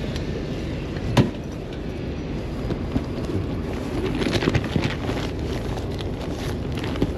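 Steady outdoor street background noise, with one sharp click about a second in and a few softer clicks and rustles a few seconds later.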